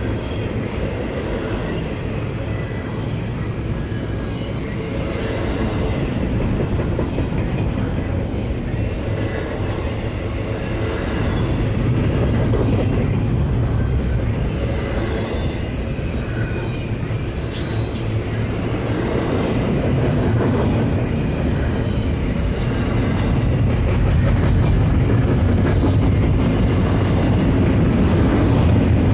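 Double-stack intermodal freight train rolling past: a continuous rumble of steel wheels on rail with clicking over the rail joints, swelling and easing slightly as the cars go by.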